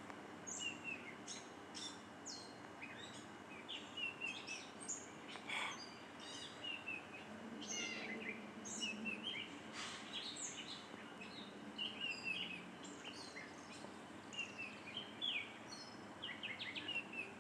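Songbird singing: a steady run of short, quick chirps and whistled notes, high-pitched and repeated throughout.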